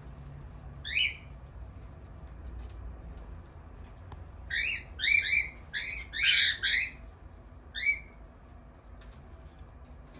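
Cockatiel calling: one short call about a second in, then a quick run of six or so high chirping calls in the middle, the last of them the loudest, and one more call near the end.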